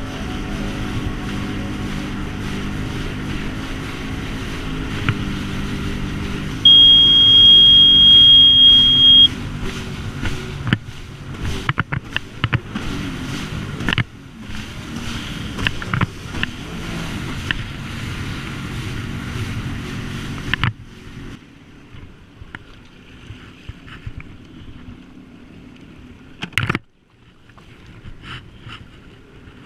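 Sea-Doo Spark jet ski running under way on its swapped-in Can-Am Ryker ACE 900 three-cylinder engine. A loud, steady high beep sounds for about two and a half seconds: the high-battery-voltage alarm that goes off when the engine is revved over 6000 RPM. About two-thirds of the way in the engine sound drops away, leaving quieter water and wind noise and one sharp knock.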